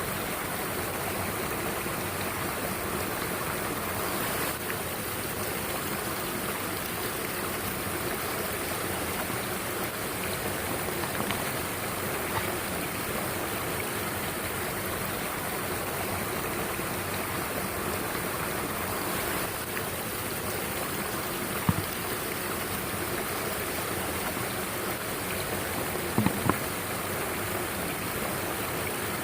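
Mountain stream rushing steadily over rocks. A single sharp knock sounds about two-thirds of the way in, and a quick double knock near the end.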